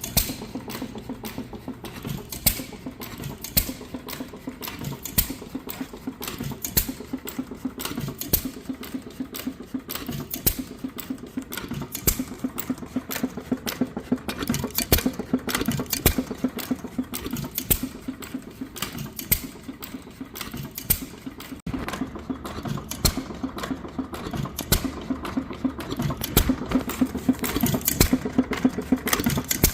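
York 1-1/2 HP single-cylinder hit-and-miss engine running on its first run: a steady, fast mechanical clatter, with louder knocks at uneven intervals of a second or two.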